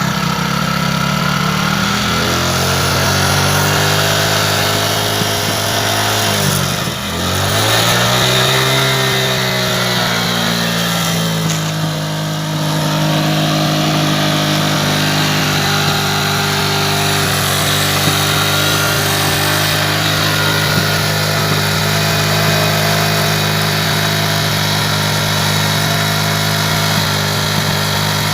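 Motorcycle engine running with a balloon fitted over its exhaust silencer, giving a steady pitched drone. About seven seconds in, the pitch sags sharply and then climbs back.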